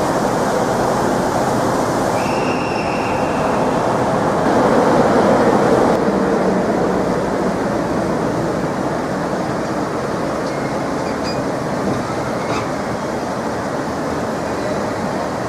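Train running through the station: a steady rumble of wheels on rails, swelling about five seconds in, with a brief high squeal about two seconds in.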